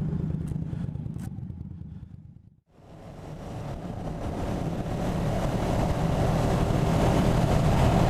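Motorcycle engine and wind noise fade out to silence about two and a half seconds in, then fade back up, growing steadily louder as the KTM 1290 Super Duke GT's V-twin runs under way.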